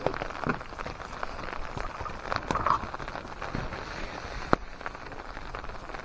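Steady rain pattering on a tarp overhead, with scattered drips and taps; one sharp tap stands out about four and a half seconds in.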